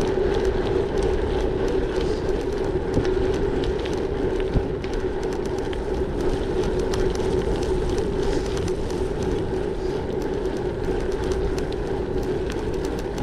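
Gravel bike rolling along, its tyres giving a steady hum with wind rush over it and many small, irregular ticks from the tyres and bike.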